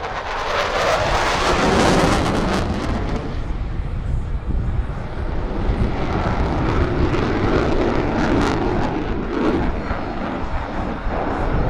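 F-16 fighter jet's engine running loud: a continuous rushing roar that swells about two seconds in, then holds steady.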